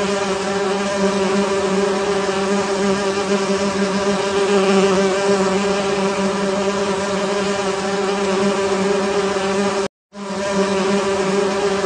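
Honeybee hive buzzing: the steady, dense hum of many bees at once. About ten seconds in, the sound cuts out for a moment and fades back in.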